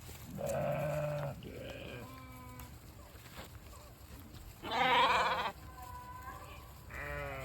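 Sheep bleating, several separate calls in turn, the loudest and longest about five seconds in.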